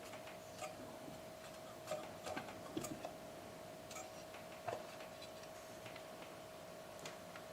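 Scattered light clicks and knocks, a few bunched together about two to three seconds in, over a faint steady hum.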